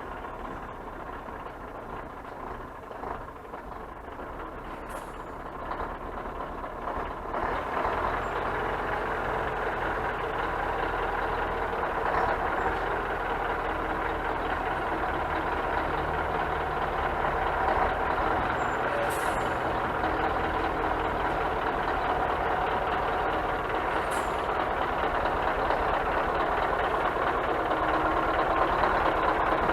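Scania truck's diesel engine running, getting louder about a quarter of the way in and then holding steady.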